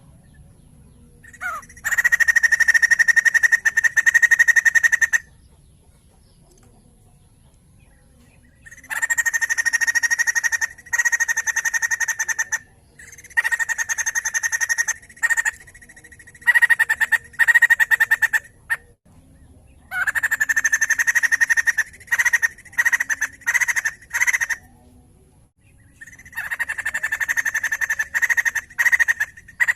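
White-crested laughingthrush calling loudly in rapid, rattling bursts of two to four seconds, separated by short pauses.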